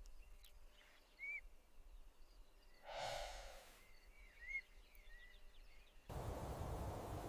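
Faint outdoor nature ambience: a few short, high, arched chirps, like small bird calls, and a soft whoosh about three seconds in. A steady hiss comes in suddenly near the end.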